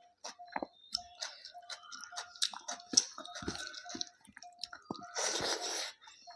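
Close-miked chewing of rice, chicken and salad: irregular wet mouth clicks and bites, with a louder, denser noisy stretch just under a second long about five seconds in.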